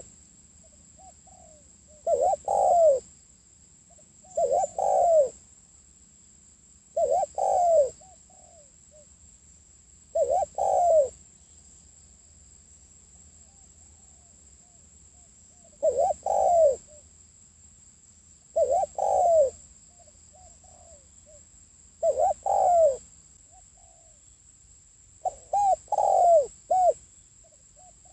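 Spotted dove cooing: a phrase of two or three low, falling coos repeated every two to three seconds, with one longer pause about halfway through. It is the cooing call used as a decoy to provoke wild doves.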